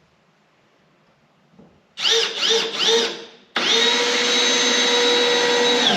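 Milwaukee M12 cordless drill/driver driving a screw into a wooden board: three short trigger pulses, each spinning up and winding down, then a steady run of about two seconds that stops near the end.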